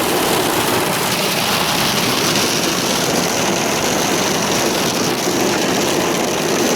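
Hail and heavy rain hitting the car's roof and windscreen, heard from inside the car as a loud, steady, dense clatter.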